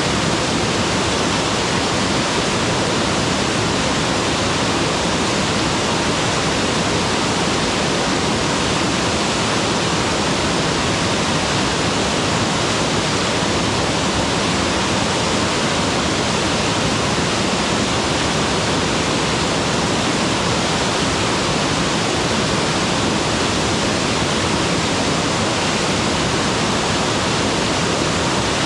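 Mountain waterfall: water pouring and splashing in a steady, dense rush with no changes.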